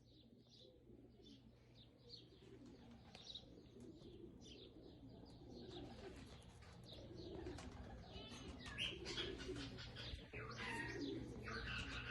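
A pair of budgerigars chattering and warbling in quick chirps, growing louder toward the end, over a steady low hum.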